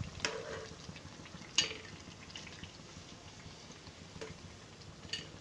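Hot oil sizzling faintly in a frying pan, with a few light knocks of a utensil against the pan, the clearest about a second and a half in, as fried wheat-flour and banana fritters are lifted out of the oil.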